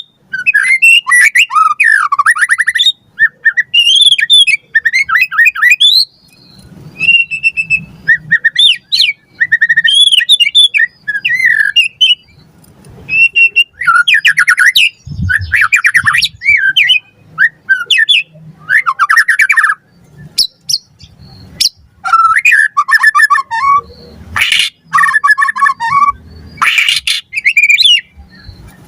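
White-rumped shama (murai batu) singing a loud, varied song: quick whistled phrases that slide up and down, mixed with harsh chattering notes. It comes in bursts of a second or two with short pauses between them.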